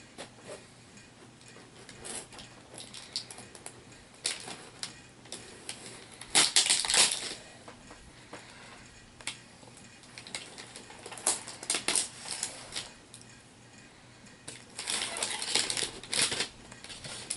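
Packaging for HeroClix boosters being handled and torn open: irregular crinkling and rustling, loudest in a burst about a third of the way in and again near the end.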